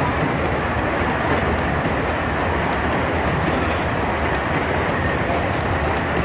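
Miniature-railway passenger train running over a trestle: a steady rumble and rattle from the cars, with faint clicking of wheels over rail joints.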